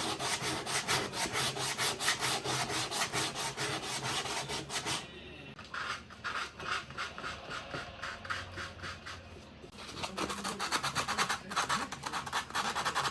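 A hand tool rasping back and forth on wood in rapid, even strokes. They ease off about five seconds in and pick up again near the end.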